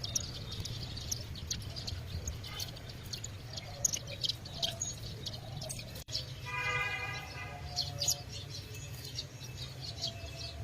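Many small birds chirping in quick, short calls, over a steady low hum. About six and a half seconds in, a pitched call with several overtones lasts about a second.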